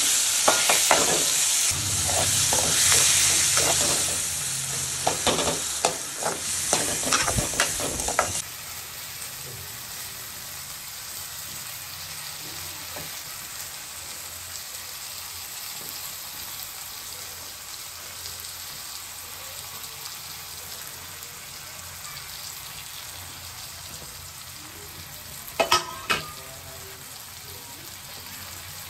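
Onions, green chillies and tomatoes sizzling in hot oil in a metal wok, with a metal spatula scraping and clattering against the pan as they are stir-fried. After about eight seconds the sizzle drops suddenly to a quieter steady hiss, with a brief clink near the end.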